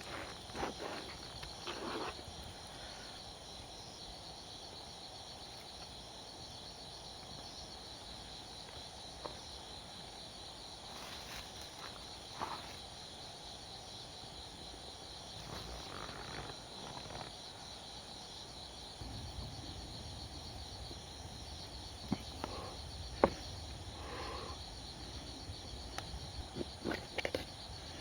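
Insects chirring steadily in a high, finely pulsing drone, with a few scattered light clicks and knocks of handling.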